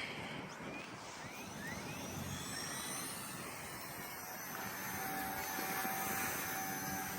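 XK K110S micro RC helicopter's electric brushless motors and rotors whining in flight. The pitch glides upward early on, then settles into a steady whine for the second half.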